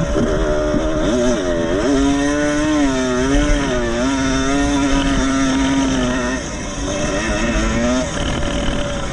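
Vintage 125cc two-stroke motocross motorcycle engine revving hard, its pitch swinging quickly up and down as the throttle is worked, then holding fairly steady with small wobbles before dropping off about six seconds in.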